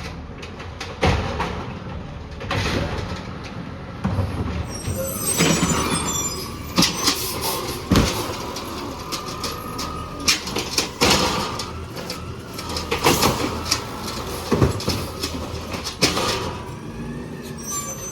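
Peterbilt 320 garbage truck with an automated arm and clamp at work: repeated clanks and bangs over the running engine, with a brief high squeal about five seconds in.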